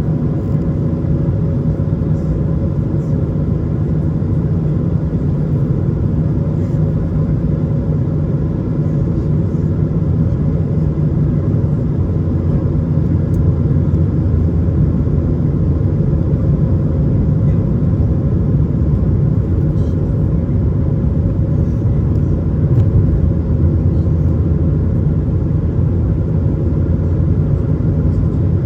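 Cabin noise aboard an Airbus A220 in flight: a steady low rumble of airflow and its Pratt & Whitney PW1500G geared turbofan engines, with a faint steady hum above it.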